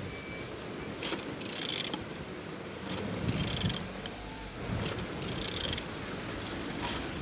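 Used Opel A18XER 1.8-litre four-cylinder petrol engine being turned over by hand at the crankshaft. There are repeated short rasping, clicking strokes about every two seconds as it rotates, and it turns freely: a sign the engine is not seized.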